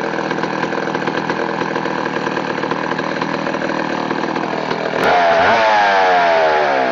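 Two-stroke chainsaw engine idling steadily, then revved sharply about five seconds in, its pitch sliding back down as the throttle is let off.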